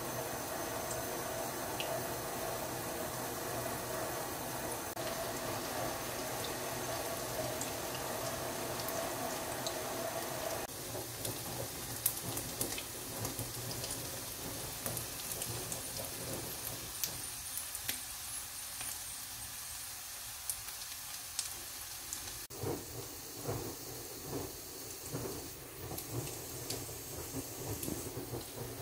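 Sliced okra and beaten egg frying in oil in a nonstick wok: a steady sizzle with scattered crackling pops. A run of light clicks and knocks comes in the last few seconds.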